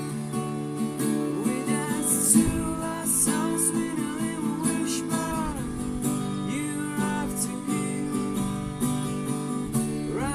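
Music on a strummed acoustic guitar, with a higher melody line over it that bends and wavers in pitch.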